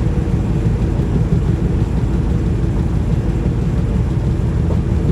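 Semi-truck engine and road noise droning steadily while driving on the highway, a low, even rumble with a faint steady hum above it.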